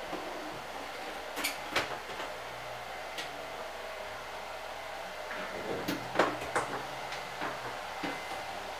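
Scattered sharp knocks and clicks over a steady hiss. There is a cluster around two seconds in and another, loudest, around six seconds in, typical of parts or tools being handled against cabinetry.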